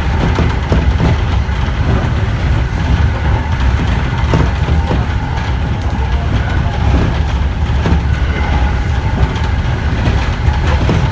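Interior of a JR East E231 series 1000 electric commuter train running between stations: a steady low rumble from the wheels and running gear, with occasional clacks.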